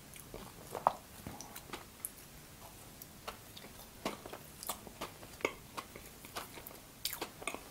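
Close-miked chewing of a soft, sugar-coated apple-and-cinnamon donut: scattered soft wet mouth clicks and smacks, a few each second, with a small cluster near the end.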